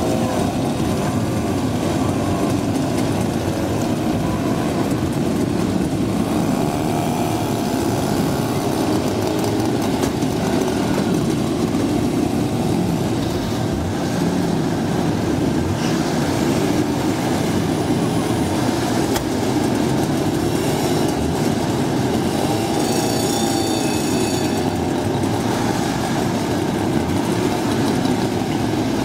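Engines of several small three-wheeled microcars driving slowly past in a line, their revs rising and falling, with a brief high whine about two-thirds of the way through.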